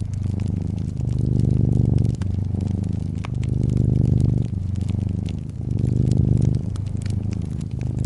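Domestic cat purring close up, a steady low rumble that swells and eases with each breath, about four breaths here. Scattered light crackles of a wood fire over it.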